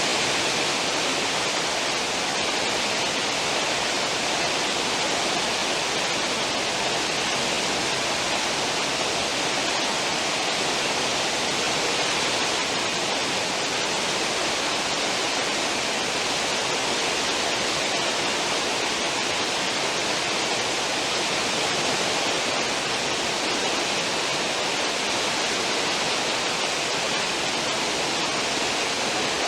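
Churning water of a cruise ship's stern wake, a steady rushing hiss that does not change.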